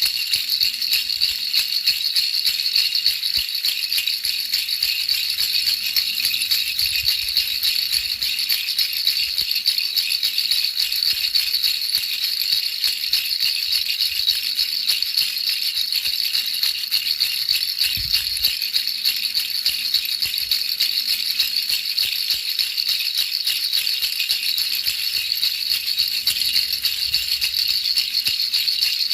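Baby rattle shaken continuously, a dense, steady high-pitched rattling used as white noise for putting babies to sleep.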